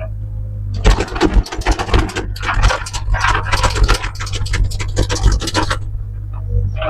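Heavy equipment's engine running steadily, under about five seconds of dense scraping and crackling, like wood or brush being dragged and broken.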